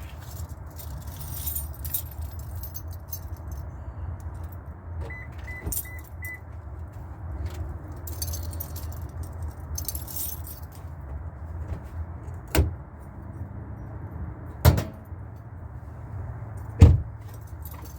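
Light metallic clinking and jingling over a steady low hum during an engine oil check. A short run of four quick beeps comes about five seconds in, and three sharp knocks come in the last six seconds, the last the loudest.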